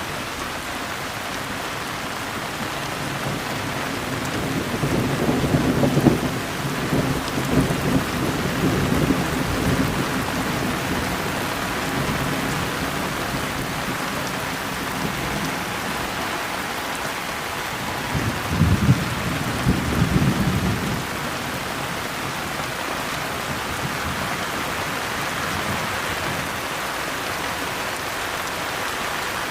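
Steady rain falling, with thunder rumbling low twice: a long roll from about four seconds in, and a shorter, stronger one about two-thirds of the way through.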